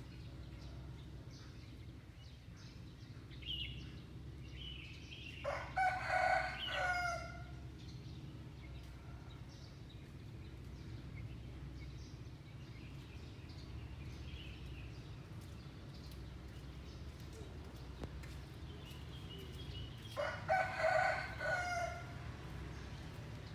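A rooster crowing twice, each crow about two seconds long and the second some fifteen seconds after the first. Faint small-bird chirps come just before each crow, over a steady low background hum.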